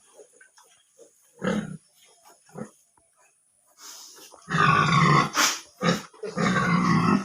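Domestic pigs grunting in a piggery: a few short grunts, then two louder, longer calls in the second half, with a sharp click between them.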